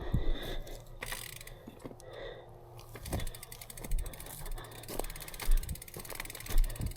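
Mountain bike freewheel hub ticking rapidly as the bike coasts, setting in about three seconds in, with a few low thumps.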